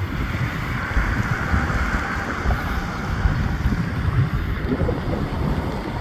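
Wind buffeting the microphone: an uneven low rumble with a steady hiss over it.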